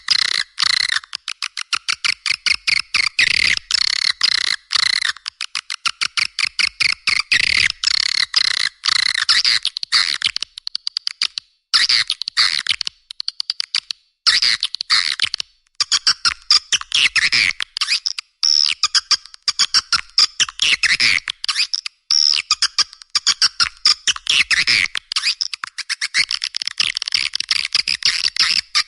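Swiftlet call-lure track: dense, rapid twittering and chirping of swiftlets, played almost without break, with a few short pauses. It is the kind of call played to draw swiftlets into a nesting house.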